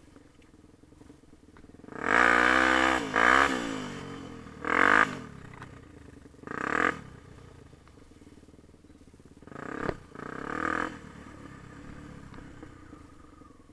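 Yamaha TT-R250 dirt bike's single-cylinder four-stroke engine revving in five short bursts of throttle, the pitch rising and falling each time, and running low and quiet between them.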